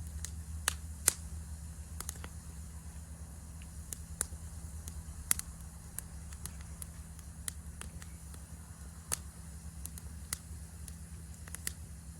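Wood campfire crackling, with scattered sharp pops at irregular intervals over a low, steady rumble; the loudest pops come about a second in and about five seconds in.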